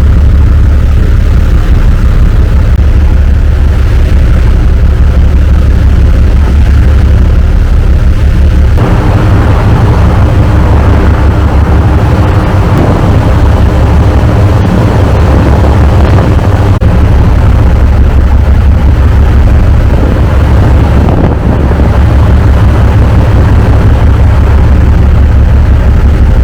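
Ferry's engines droning steadily with a loud low hum; about nine seconds in, a broader rushing noise joins the drone.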